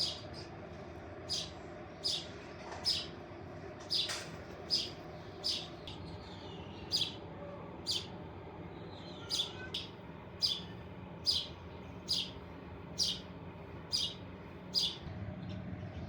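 A bird chirping repeatedly, short sharp high-pitched chirps about one every second, in a steady series.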